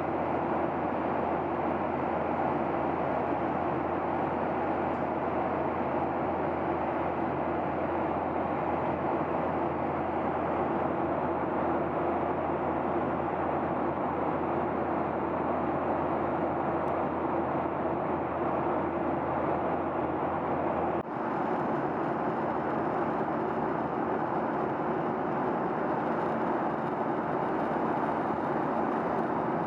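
Steady cabin roar of a Boeing 737-800 in flight, its CFM56 engines and airflow making an even rushing noise over a low hum. About two-thirds of the way through, the sound dips for a moment and the low hum drops away.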